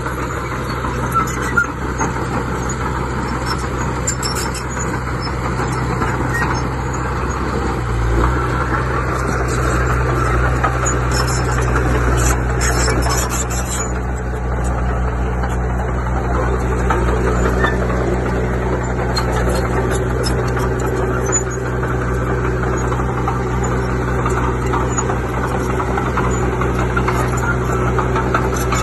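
Heavy diesel earthmoving machine's engine running steadily, picking up in level and pitch about eight seconds in as it comes under load.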